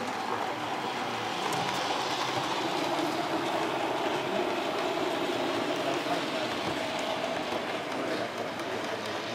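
A train running along the track: a steady rumble of wheels on rails that holds throughout without a break.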